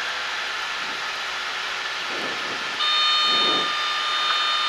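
Cessna 152 cabin noise: the engine and airflow making a steady drone. About three seconds in, a steady high, whistle-like whine of several tones joins it.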